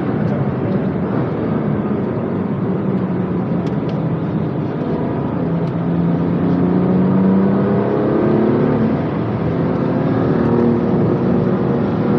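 BMW M2 Competition's twin-turbo straight-six heard on board at speed over tyre and road noise. The engine note climbs as the car accelerates, with several more rising sweeps in the second half.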